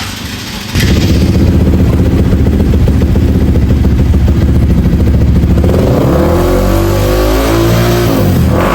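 Bored-up single-cylinder four-stroke trail bike engine running loud and fast, coming in suddenly about a second in, then revved up and down several times near the end.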